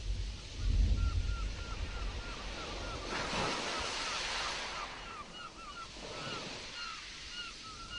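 Sea waves breaking and washing with wind, a deep rumble near the start and a wave surging in about three seconds in. A rapid run of short, high chirps, several a second, carries on over the surf.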